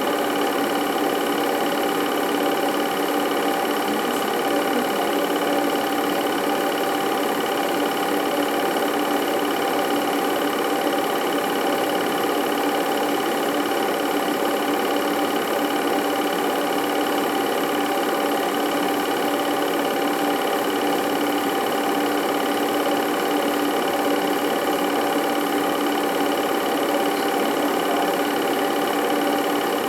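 Film projector running: a steady mechanical whirr and clatter with a constant hum, unchanging throughout.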